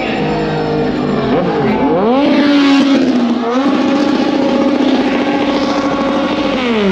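Motorcycle engine being revved: the pitch rises about two seconds in, holds steady at high revs for a few seconds, then falls away near the end.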